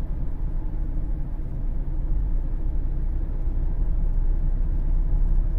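Steady low rumble of road and drivetrain noise inside a 2013 Cadillac CTS 3.0 RWD cruising at about 45 mph. This is the speed at which the driveshaft is out of balance and the car vibrates.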